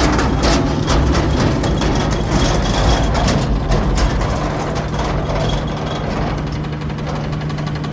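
Garbage truck's diesel engine idling steadily with a low hum, with clanking and rattling over the first few seconds.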